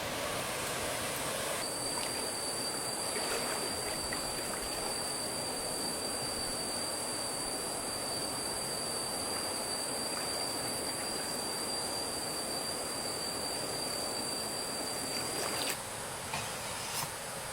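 Steady rush of flowing stream water, with a continuous high insect drone over it that stops a couple of seconds before the end. A few light knocks come near the end.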